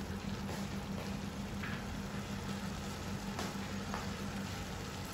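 Chicken pieces frying in a thick tomato masala in a large pot: a steady sizzle, with a low hum underneath and a few light clicks.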